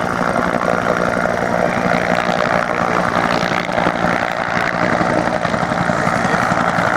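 UH-1 Huey helicopter running steadily, its turbine engine and rotor making a loud, continuous mechanical noise.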